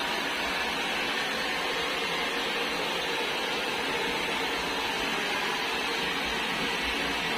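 A steady, unchanging rushing noise with a faint low rumble underneath.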